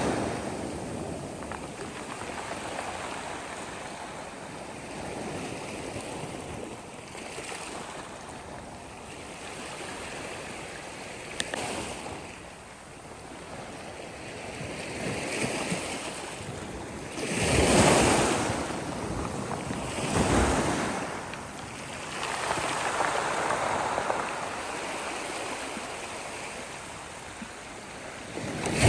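Sea waves breaking and washing up a shore in slow, rolling surges, with the two strongest breakers close together about two-thirds of the way through. A brief click near the middle.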